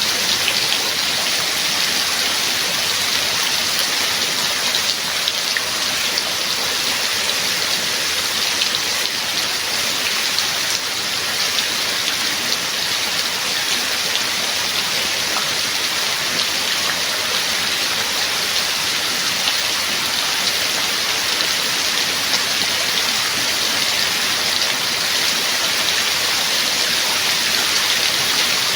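Steady heavy rain: a dense, even hiss of falling drops with a fine patter.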